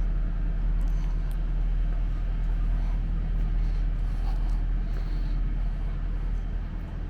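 A motor vehicle engine running steadily with a low rumble, easing off near the end.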